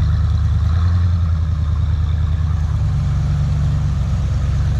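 Vehicle engine idling steadily, a low, even drone.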